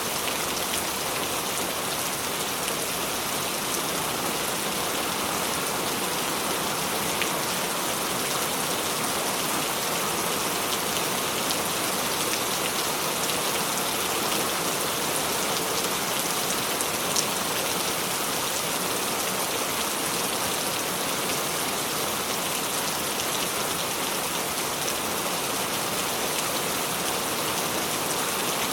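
Steady rain falling, an even hiss with a dense patter of individual drops, one drop landing a little louder past the middle.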